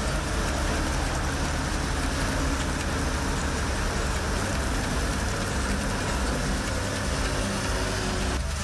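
Heavy rain pouring down steadily, a dense, even wash of noise.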